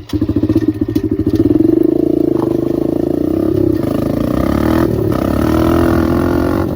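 125 cc dirt bike engine running. It comes in suddenly right at the start, builds over the first second or two, then holds steady with slight rises and falls in pitch.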